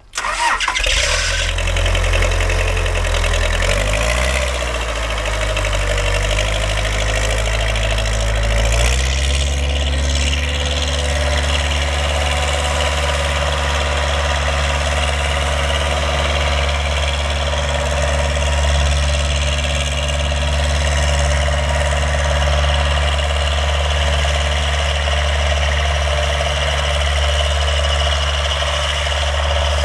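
Backhoe engine starting up and running, its speed stepping up about four seconds in and again near nine seconds before it settles into a steady run.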